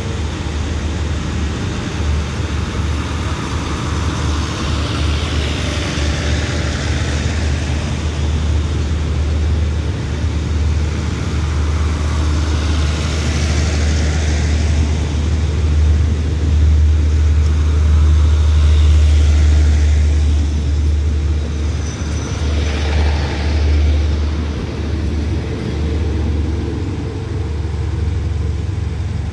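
Diesel-hauled passenger train running past and pulling out: a steady low engine drone that grows louder about midway, with waves of wheel and rail noise.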